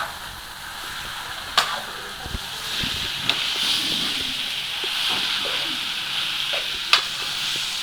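Chicken pieces frying in hot oil with onion and spices in a pan: a steady sizzle that grows louder about two and a half seconds in, with a couple of sharp knocks, like a spoon against the pan, near two and seven seconds in.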